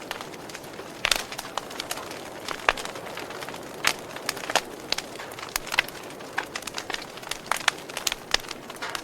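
Wood fire crackling: sharp pops and snaps at irregular intervals, a dozen or more, over a soft hiss of burning.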